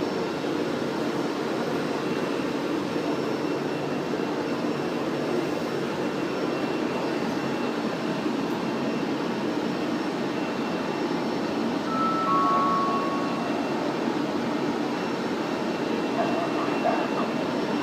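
Steady hum and rumble of an electric Frecciabianca train standing in the station with its equipment running, with a faint high steady whine. A short two-note beep sounds about twelve seconds in.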